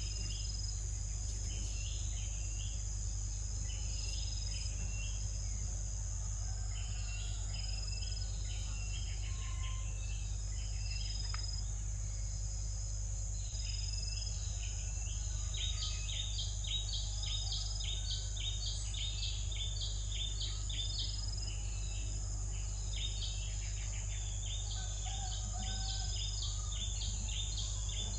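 Birds chirping in quick runs of short high notes, busiest in the second half, over a steady high-pitched insect drone and a low constant hum.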